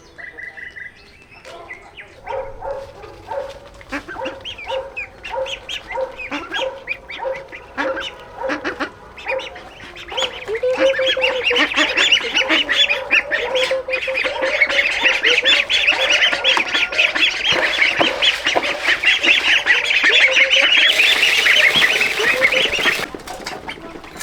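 Flock of geese honking, scattered repeated calls at first that build about halfway in into a dense, loud chorus, which cuts off shortly before the end.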